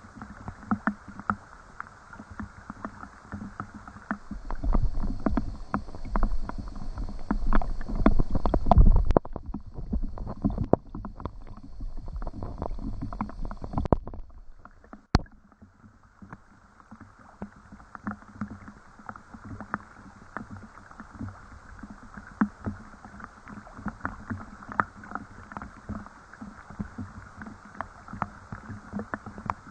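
Rain falling, a dense irregular patter of drops tapping on a hard surface. A louder low rumble swells in about four seconds in and fades near nine seconds. About halfway through the sound drops away briefly with a sharp click, then the patter comes back.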